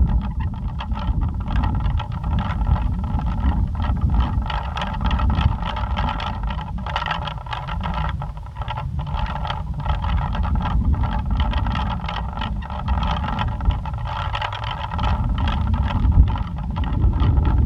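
Plastic pinwheel spinning fast in strong wind, a steady whirring rattle, over heavy wind rumble on the microphone that comes and goes in gusts.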